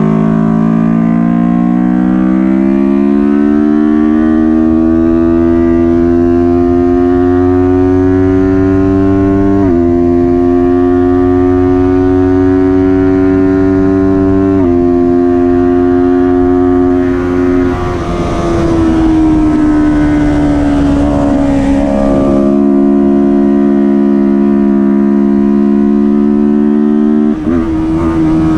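Kawasaki Ninja 400 parallel-twin engine at high revs under racing load, its pitch climbing over the first few seconds and then holding high, with several quick gear changes. It falls in pitch for a few seconds a bit past the middle before climbing again.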